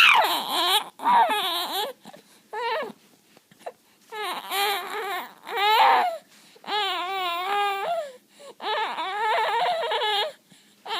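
A baby girl making a string of about seven long, warbling vocal squeals, the pitch wobbling up and down. It sounds cry-like, but it is her playful 'singing', not distress.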